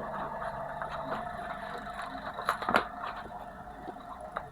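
Irregular scraping and clicking of hands working the ring out of an old torn drum skin, with two sharper clicks about two and a half seconds in, over a steady faint hum.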